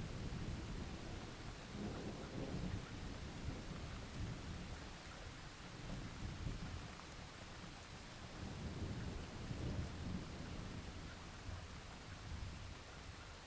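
Steady rain with low rolling thunder that swells and fades several times, easing off near the end.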